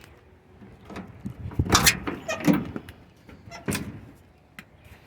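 Rusted cab door of a 1975 Ford F350 pickup being worked open: a few sharp metal clanks and scrapes with a short creak in the middle.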